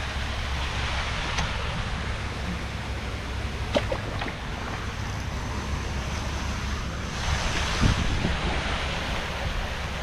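Wind buffeting the microphone outdoors: a steady rushing noise with a deep rumble underneath and a few faint clicks.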